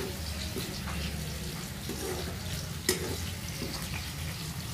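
Vegetables sizzling steadily as they fry in hot ghee in a steel kadai, with one sharp knock about three seconds in.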